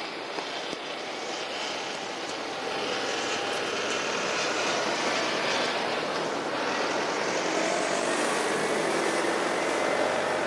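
Steady rushing noise that slowly grows louder and brighter.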